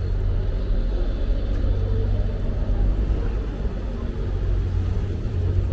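Steady low rumble of city street noise heard from a moving bicycle, with an even hiss above it.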